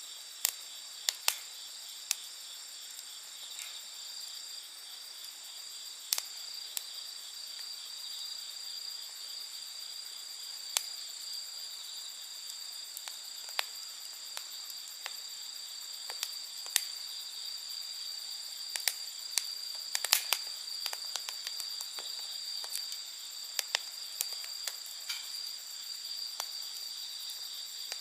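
Wood fire crackling with sharp, irregular pops that bunch together about two-thirds of the way in, over a steady high-pitched insect chorus.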